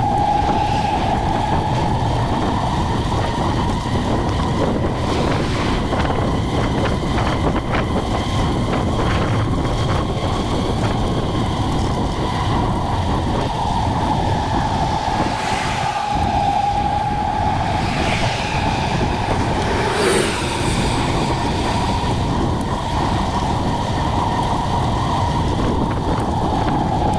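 Wind on the microphone and road noise while riding a bicycle, with a steady high whine that drifts slightly in pitch.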